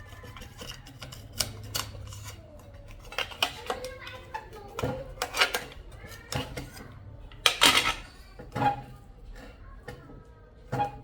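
Small metal tools and parts clinking and knocking against a work surface during hands-on repair work, a series of irregular sharp knocks, some with a brief ring, the loudest cluster a little past halfway.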